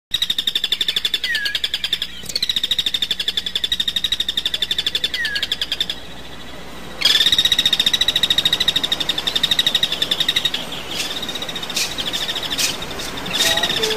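Bird trilling: a high, fast-pulsing trill in long stretches of a few seconds each that break off abruptly, with a short falling chirp now and then.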